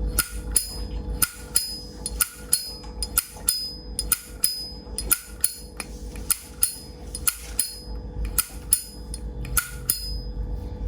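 Vintage Zippo lighter being worked by hand, its lid snapping open and shut again and again: a quick, uneven run of sharp metallic clicks and clinks, about two or three a second, each with a short bright ring. A faint steady hum lies beneath.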